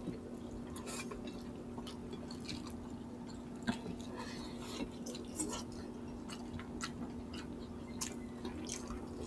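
Close-miked eating sounds of two people eating chicken and string beans by hand: chewing with scattered small wet clicks and smacks. A steady low hum runs underneath.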